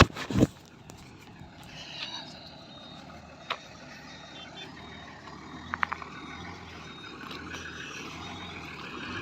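Truck engine running in the background with a faint high reversing alarm beeping on and off. There are a couple of loud knocks at the very start and a few sharp clicks later.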